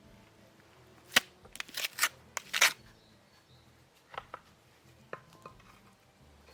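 A quick run of sharp knocks and cracks, the loudest about a second in, followed by a few weaker knocks near the middle. These are hand-work impacts on wood or stone.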